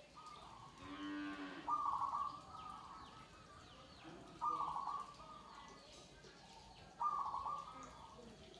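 Zebra doves (perkutut) cooing, a short phrase repeating about every two and a half seconds, three times. About a second in, a single lower, drawn-out call of a different animal sounds once.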